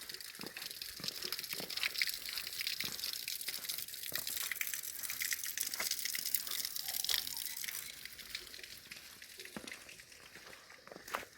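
Water running and splashing, with many small drips and clicks; it dies down about eight seconds in.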